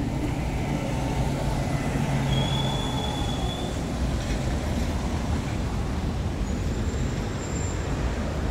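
Steady low rumble of city traffic with a low hum, broken by a brief high squeal about two seconds in and a fainter, higher one near the end.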